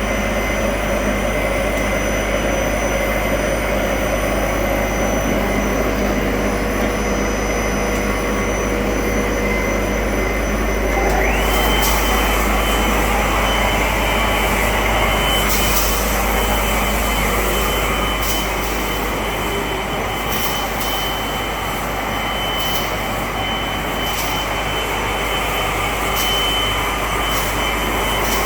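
60 mm LDPE plastic extrusion machine running with a steady mechanical noise; about ten seconds in a high whine rises and then holds steady, and scattered clicks come later.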